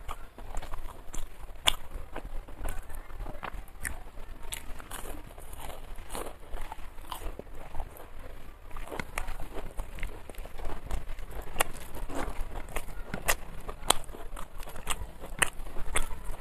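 A person chewing and crunching food, with many irregular sharp crunches and mouth sounds.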